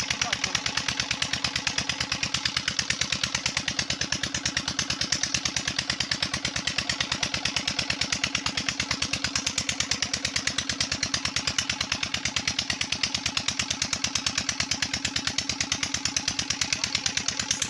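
Diesel engine of a village tubewell running steadily at constant speed with a rapid, even beat as it drives the bore pump.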